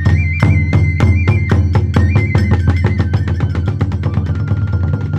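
Hiroshima kagura hayashi ensemble playing. Drum and hand-cymbal strikes come steadily and quicken from about two seconds in, with a bamboo flute melody held high above them that steps down to a lower held note near the end.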